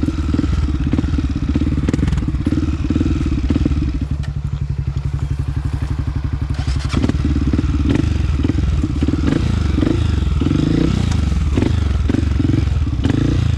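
Honda CRF250F single-cylinder four-stroke dirt bike engine running at varying throttle, settling to a steady, even idle for about three seconds near the middle before the revs pick up again.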